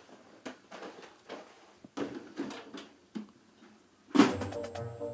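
A few soft, irregular knocks and rustles, then background music starts about four seconds in.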